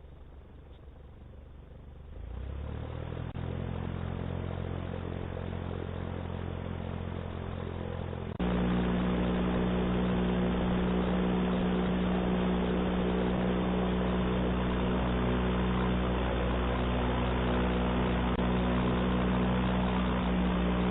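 Homemade airboat's engine and propeller running, quiet at first, speeding up about two seconds in and again sharply about eight seconds in, then holding a steady high speed.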